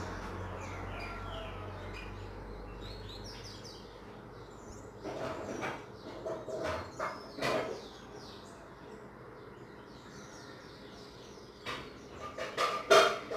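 Small birds chirping again and again in the background, with clusters of louder short sounds about five to seven seconds in and again near the end.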